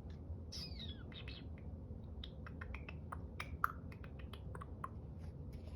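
A bird chirping in a quick string of short, sharp calls, with one falling chirp about half a second in.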